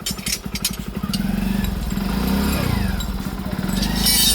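Tractor diesel engine running with an even low throb, growing louder about a second in, with a few sharp metallic clicks near the start and again near the end.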